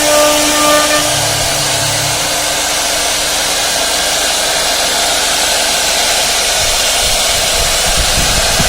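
Wood-carving CNC router running, a steady loud hiss of the spindle and cutter working the wood. A few steady tones over it stop about a second in.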